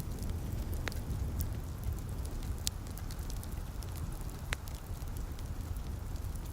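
Wood fire crackling in a fireplace, with a few sharp pops scattered among the crackle, over the steady hiss of light rain and a low, even rumble.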